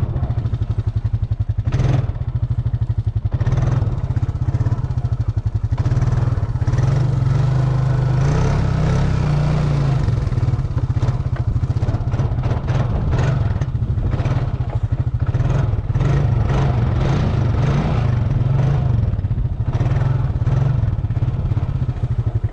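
Four-wheeler (ATV) engine running under throttle as it is ridden, with some rattling; it pulls hardest from about six to ten seconds in, then carries on at a varying throttle.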